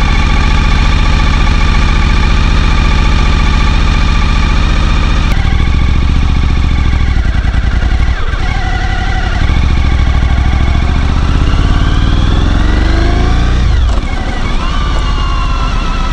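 Suzuki V-Strom 1000's V-twin engine running under way, its pitch shifting as the throttle changes; near the end the pitch climbs and then drops sharply, a gear change.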